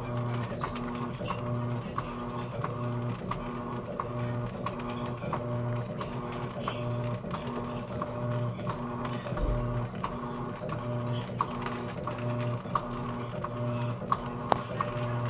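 Electrolux Essential Care LES11 top-load washing machine agitating a load of curtains. Its motor hums in short regular pulses, a little more than once a second, with scattered clicks.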